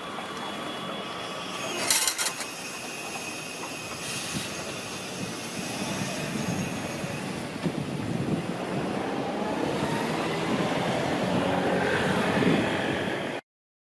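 Freight train of tank wagons hauled by an EF65 electric locomotive rolling past, the wagons rumbling and clattering, with thin wheel squeal early and a sharp clatter about two seconds in. In the second half a tone slowly rises over the growing rumble. The sound cuts off abruptly near the end.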